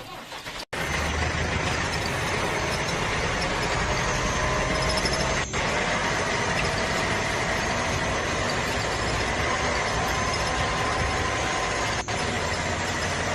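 Small motor running steadily with a faint high whine, broken by two brief dropouts.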